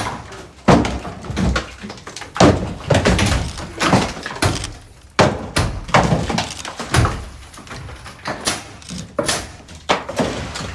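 Interior demolition work: about a dozen irregularly spaced bangs and knocks as material is struck and pulled apart, in a small room that gives each hit a short echo.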